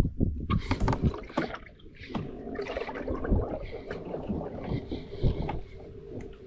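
A quick run of knocks and clatter on a fishing kayak in the first second and a half, then a steadier rustle of water and wind around the boat.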